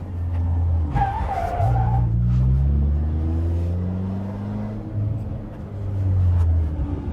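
Peugeot 206's straight-piped four-cylinder engine revving up and down through the gears under hard driving, with a short wavering tyre squeal about a second in.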